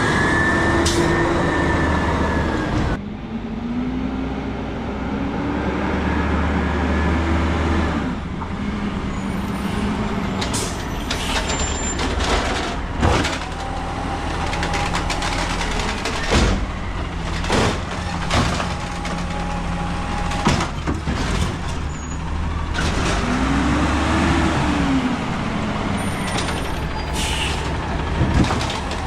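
Peterbilt 320 garbage truck with an Amrep automated side-loader body working its hydraulics. The engine revs up and falls back several times with a rising and falling whine. In the middle comes a run of sharp metal bangs as the cart is slammed against the hopper.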